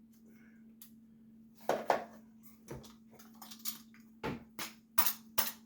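A small screwdriver poking and scraping inside a Quadrajet carburetor's passage to work loose a stuck check ball: a series of sharp metal clicks and scrapes that start about two seconds in and come faster near the end, over a faint steady hum.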